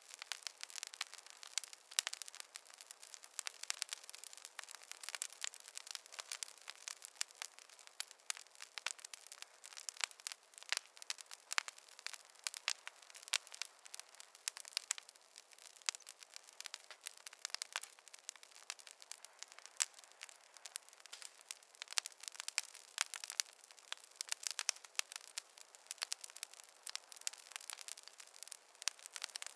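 Wood fire crackling: a dense, irregular run of sharp pops and snaps over a faint hiss, with no low rumble.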